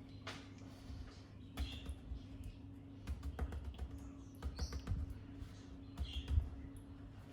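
Irregular light taps and scrapes of a utensil spreading icing on a cake, over a steady low hum.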